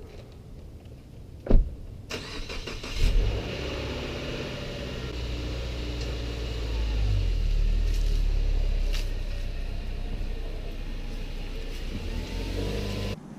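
A click, then a motor vehicle's engine starts about three seconds in and runs with a steady low hum, rising in level around the middle, before cutting off abruptly near the end.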